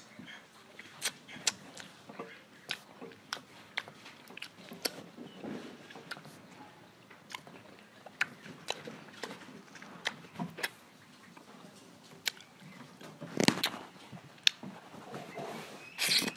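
Close-up biting and chewing of mango pieces: many short, sharp, irregular mouth clicks and smacks, with one louder thump about thirteen seconds in.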